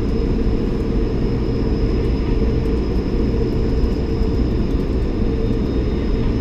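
Steady cabin noise inside a Bombardier CS300 airliner on the ground before takeoff: a low rumble with a steady hum and a faint high whine.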